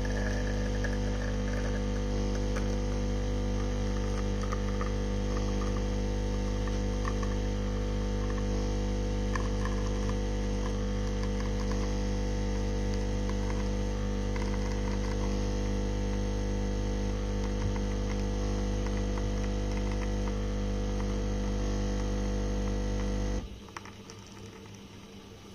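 De'Longhi Dedica espresso machine's vibratory pump running with a steady, loud hum while pulling a shot through the portafilter, then switching off abruptly near the end.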